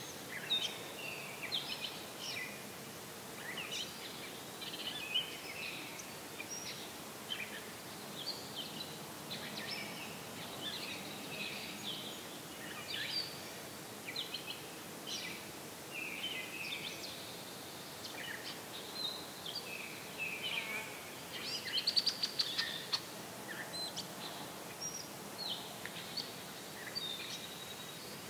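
Songbirds singing in the background: a continuous mix of short chirps and warbled phrases, with a louder, fast run of notes about three-quarters of the way through.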